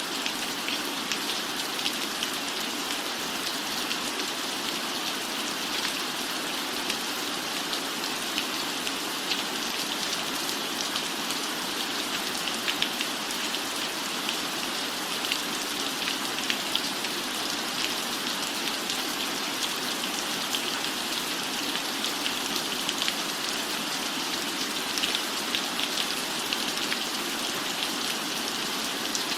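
Steady rain falling on a roof, a constant hiss with many small drop ticks scattered through it.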